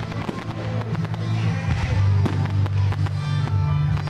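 Aerial fireworks going off in a display, with many sharp pops and bangs scattered through, over music with held bass notes that change every second or so.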